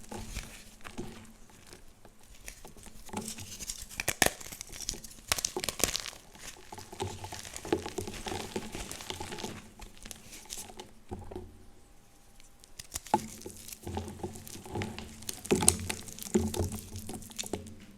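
Dyed gym chalk blocks being crushed and crumbled: an irregular run of crunches and crackles with sharper snaps, thicker in two spells and thinning out for a moment in the middle.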